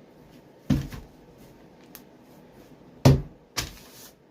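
Knocks of objects being handled and set down on a work surface: one about a second in, then a louder one and a smaller one near the end.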